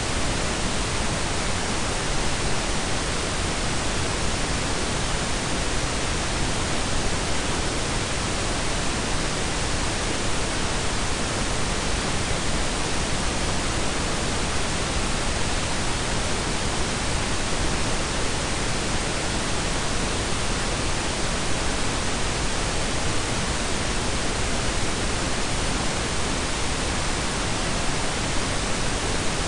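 Steady blend of pink and brown noise: an even, unchanging hiss with a deep low rumble underneath.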